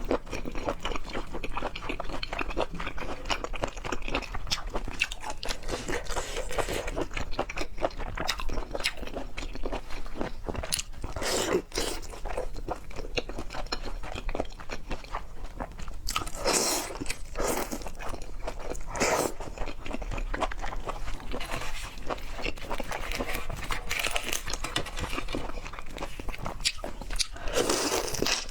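Close-miked chewing and biting of seafood, with continuous crunching, and louder crunches about 17 and 19 seconds in and near the end.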